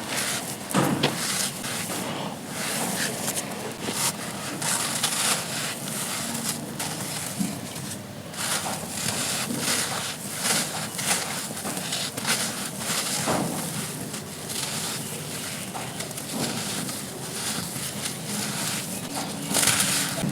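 Dry, grainy charcoal shapes crumbling and crunching: a dense run of crackles with frequent louder cracks.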